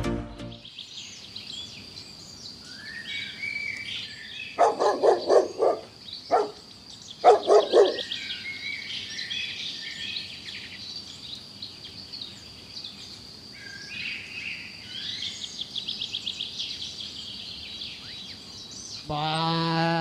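Birds chirping and twittering throughout. Two loud clusters of quick, pitched animal calls come about 5 and 7 seconds in, and a low, drawn-out animal call starts near the end.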